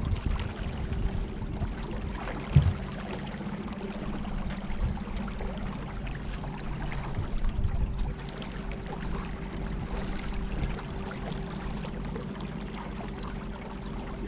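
Electric trolling motor of about 50 pounds of thrust running with a steady hum, with water rushing and splashing along the hull. One short knock about two and a half seconds in.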